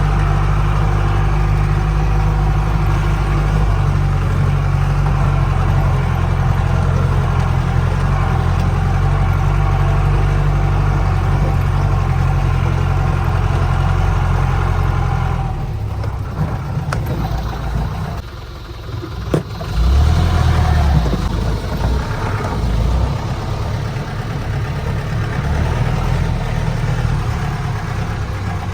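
Mahindra 4x4 jeep's engine running under load on a rough off-road track, steady and strong for about fifteen seconds, then easing off and dropping briefly before running on more unevenly.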